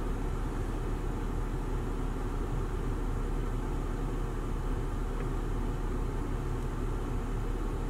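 Car engine idling steadily, heard as a low, even hum from inside the cabin.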